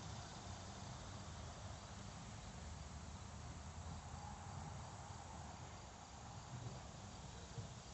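Faint, steady background of crickets chirping over a low hum.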